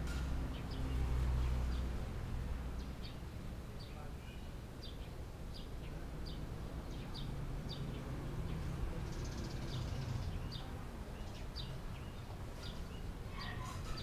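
Short, high chirps of chestnut munias repeated irregularly, about one a second, over a steady low background rumble.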